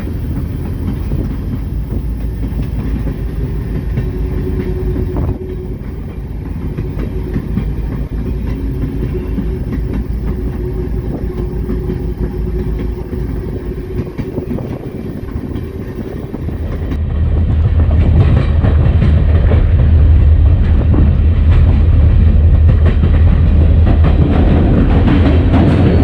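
EMD SD40-2 diesel locomotive rolling down the track, its 16-cylinder two-stroke diesel running under a steady low rumble with wheel clatter over the rails. About two-thirds of the way through the low rumble steps up and grows louder, and the hiss in the treble drops away.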